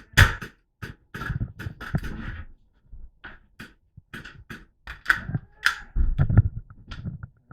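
Airsoft guns firing: a run of sharp shots, about four a second, then louder, irregular cracks and clatter.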